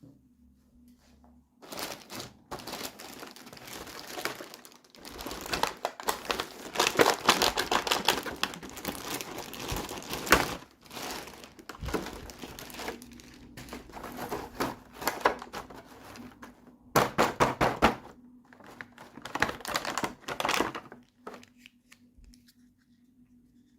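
Packaging crinkling and rustling as it is handled and opened, in uneven bursts of fine crackles that start about a second and a half in and stop near the end, with a faint steady hum underneath.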